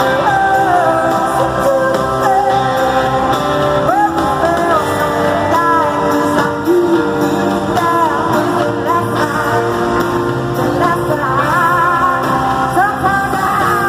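Live pop ballad sung by a female lead vocalist over her full band, her melody rising and gliding between long held notes.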